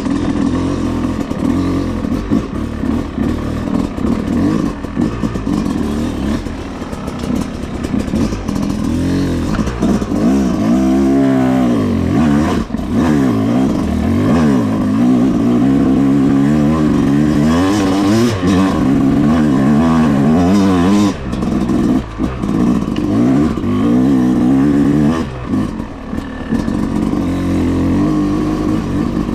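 Yamaha YZ250X 250 cc two-stroke dirt bike engine lugging uphill: running at low revs under heavy load, its pitch repeatedly rising and falling as the throttle opens and the revs sag.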